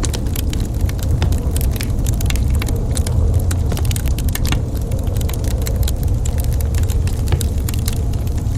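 Wood fire burning in a fireplace: a steady low rumble of the flames with frequent sharp crackles and pops of burning logs.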